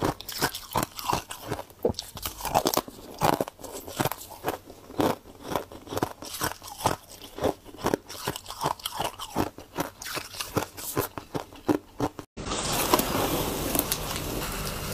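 Close-up biting and chewing of crunchy freezer frost, with many quick, irregular crunches. After about twelve seconds it cuts abruptly to a steady, rough scraping noise.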